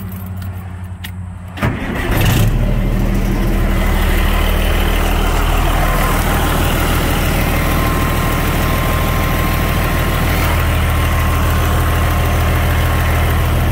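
Caterpillar 3406 inline-six diesel in a 1987 Kenworth T600 starting up for the first time after sitting eight years, with its air filter removed. It catches about two seconds in and settles into a steady idle.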